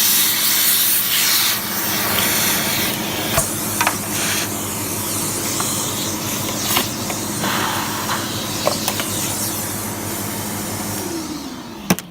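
Sebo X1 upright vacuum cleaner running and sucking up dirt, a steady rushing hum with several sharp clicks. Near the end it shuts off with a loud click and the motor winds down.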